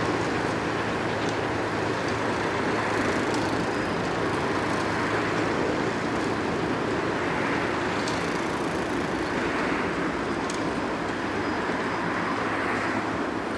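Steady running noise of a moving vehicle, with a low hum that fades out about halfway through and a few faint clicks.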